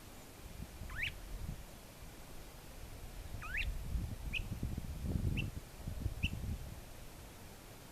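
Northern mockingbird calling: two quick upward-sweeping notes, then three short high notes about a second apart. A low rumbling noise runs under the calls and is loudest in the middle of the stretch.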